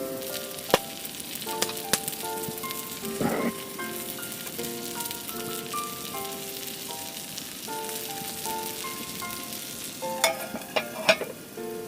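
Food sizzling and frying on a grill over a wood fire, a steady hiss with a few sharp crackles and clicks, most of them near the end. A gentle background melody plays along.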